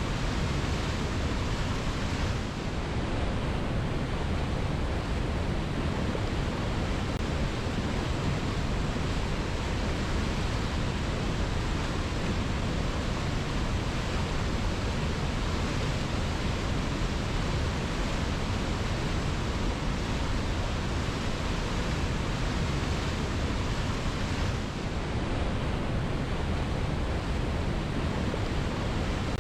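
Waterfall rushing steadily: a dense, even sound of falling water with no let-up, dipping only slightly twice.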